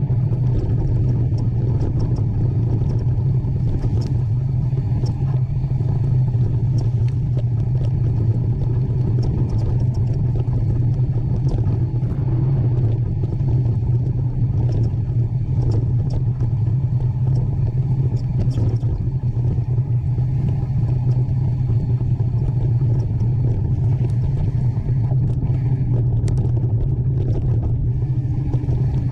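Mountain bike being ridden along a trail: a steady low rumble with scattered clicks and rattles throughout.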